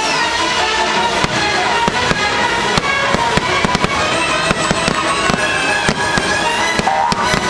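Fireworks going off in quick succession, many sharp bangs a second, over the show's orchestral soundtrack.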